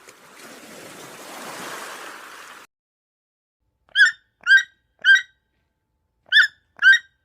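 A soft noisy rush for about two and a half seconds that cuts off suddenly, then five short, loud, pitched animal calls in two groups.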